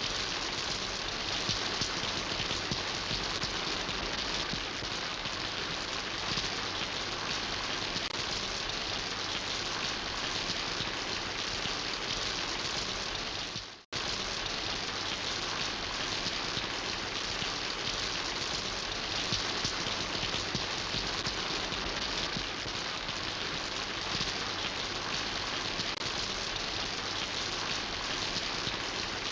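Steady rain falling, an even, continuous hiss, with a brief dip to silence a little under halfway through before it resumes at the same level.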